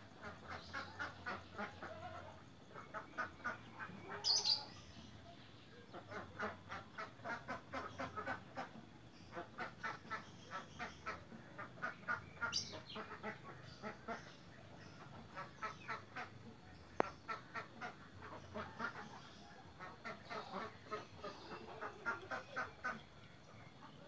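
Birds calling in repeated bouts of rapid, quack-like notes, several a second, with short pauses between bouts.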